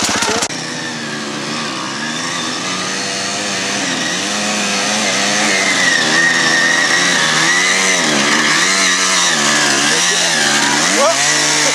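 Dirt bike engines revving up and down as the bikes ride through, with a sharp rise in revs near the end.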